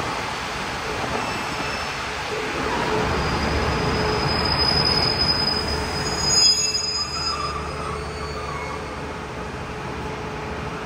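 A passenger train rolling slowly into a station platform, its wheels rumbling on the rails. High-pitched squeals come in the middle, with a short loud peak about six and a half seconds in. After that the rumble is quieter and duller as the train slows.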